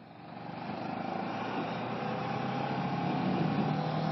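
Kawasaki ER-6f motorcycle's parallel-twin engine running under way, with wind rush over the microphone, the sound building over the first second.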